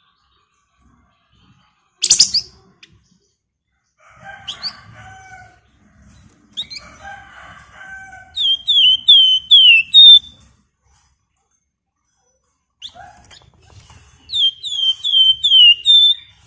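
A Javan tesia (flamboyan) singing in phrases. There is a sharp burst about two seconds in, then chattering notes mixed with lower tones, and twice a rapid run of about six loud, down-slurred whistled notes.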